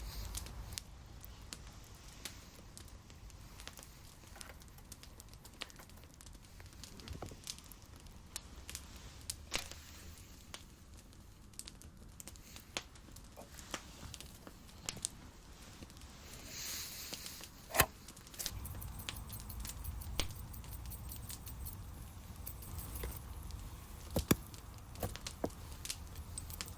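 Wood campfire crackling, with scattered sharp pops and clicks over a low steady background; a brief hiss comes about two-thirds of the way through, with the loudest pop just after it.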